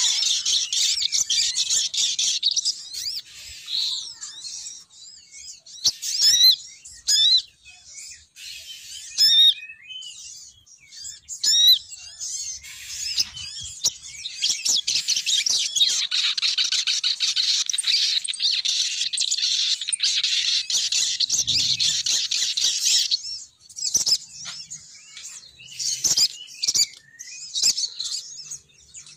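Female sogon bird calls played as a lure: rapid high chirping and twittering, sparse single notes with short gaps, then a long unbroken run of dense chatter through the middle before it thins again near the end.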